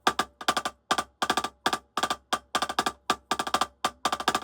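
Drumsticks playing a fast sticking exercise on a drum, in tight clusters of two to four quick strokes with short gaps between them, about three clusters a second.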